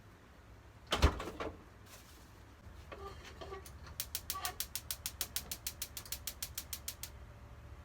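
A single sharp knock about a second in, then about three seconds of rapid, evenly spaced mechanical clicks, about seven a second, like a ratchet, over a faint low hum.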